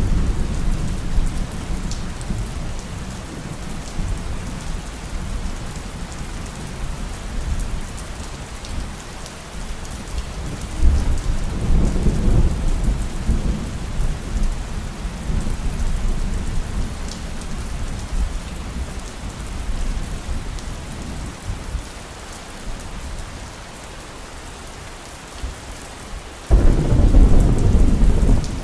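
Heavy rain falling steadily through a thunderstorm, with low rolling thunder. The rumble swells about a third of the way in, then a sudden loud thunderclap breaks near the end and keeps rumbling.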